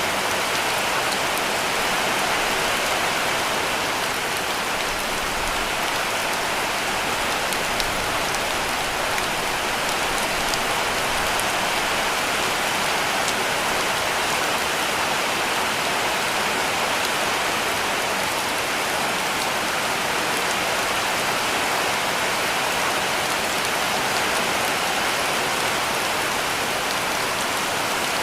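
Heavy rain falling on a cabin roof: a dense, even hiss with faint scattered drop ticks.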